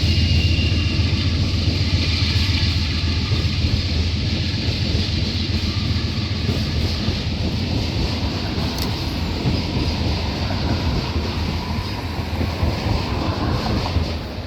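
A passing train: the steady rumble of railroad cars rolling on the rails, gradually getting quieter.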